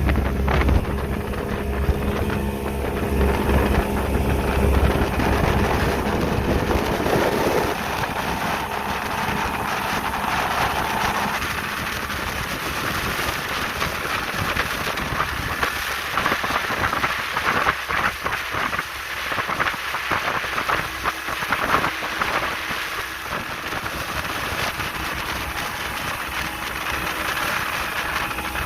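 Speedboat engine running at speed, with wind buffeting the microphone and water rushing past the hull. A steady engine tone is plain through the first part, then the sound is mostly gusty rushing noise.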